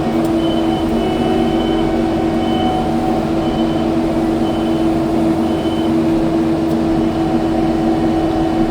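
Kubota skid steer's diesel engine running steadily under work, with short high-pitched whistles coming and going over it.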